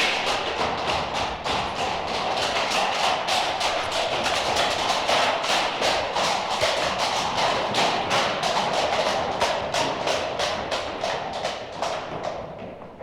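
Horses' hooves clip-clopping on hard pavement, several horses with their strikes overlapping into a quick, steady run of knocks. The sound fades out near the end.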